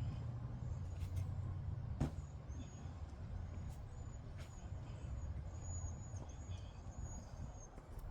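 Outdoor ambience: a low rumble that slowly fades away, with a few sharp clicks and a run of faint, short, high chirps in the middle and latter part.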